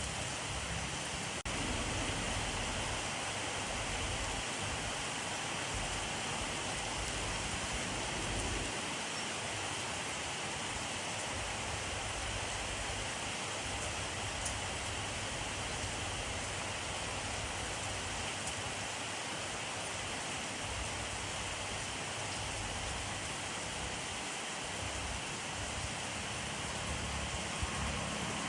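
Steady rainfall: an even hiss of rain on surfaces, with a low rumble underneath that swells and fades.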